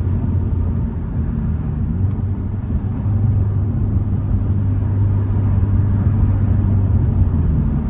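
Hyundai Elantra N's turbocharged four-cylinder engine running at a steady drone while driving, mixed with road and wind noise, growing a little louder from about three seconds in.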